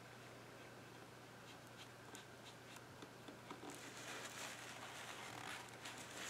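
Faint watercolour brush work: a few light taps and dabs, then soft, scratchy brushing from a little under four seconds in, with a low steady hum underneath.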